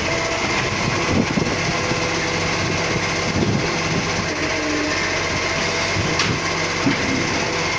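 Garbage truck running: a steady mechanical noise with a low engine hum and a few short knocks and clanks.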